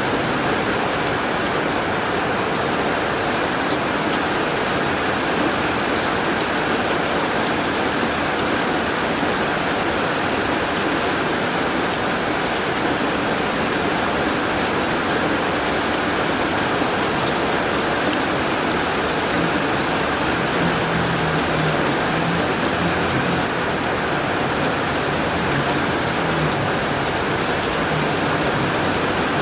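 Heavy rain falling steadily on a tin roof: an even hiss dotted with many small, sharp drop impacts.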